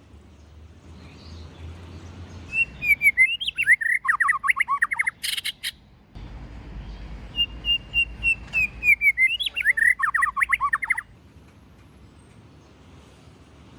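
White-rumped shama singing two loud phrases. Each opens with a few short high whistles and breaks into a rapid run of notes swooping up and down. A brief harsh burst falls between the phrases.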